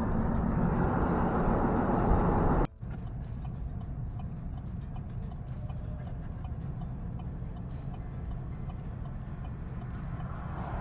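Loud vehicle road noise cuts off suddenly about three seconds in. After that come steady engine and road hum and the light, even clip-clop of a horse's hooves on pavement, from a horse-drawn buggy.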